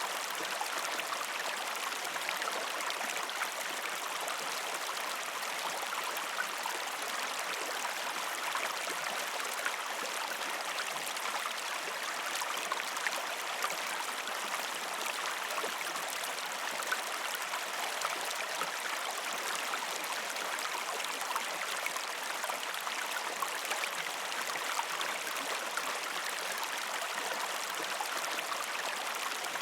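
Gentle river stream flowing over rocks: a steady rush of water with small splashes scattered through it.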